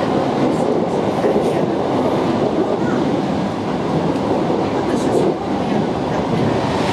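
Cabin running noise of an Aoimori Railway 701 series electric multiple unit travelling at speed: a steady rumble of wheels on rail, with a few faint ticks.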